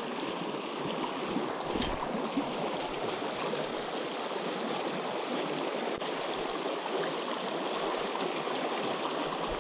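Small mountain stream rushing and splashing, a steady, even sound of running water.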